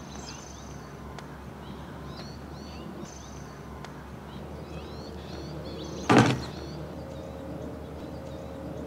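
Small birds chirping now and then over a steady low background rumble, with one short, loud thump about six seconds in.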